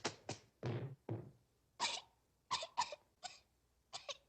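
A cartoon boy turned sparrow coughing and sputtering: a string of about ten short coughs with pauses between them, his beak full of soot.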